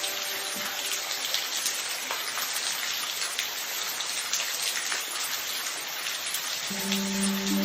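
Steady rain falling on a surface, an even hiss with scattered individual drop ticks. Held musical tones come back in near the end.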